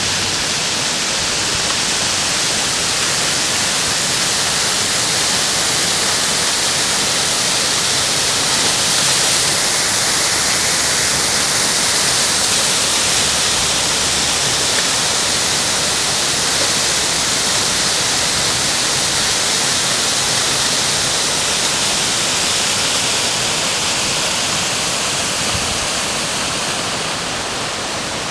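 Waterfall: a steady, loud rush of falling water, with a hiss that swells a little in the middle and eases slightly near the end.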